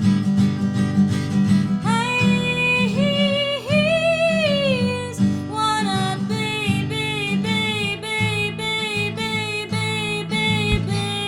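A live folk song: a guitar strummed in a steady rhythm, with a woman singing long, held notes from about two seconds in.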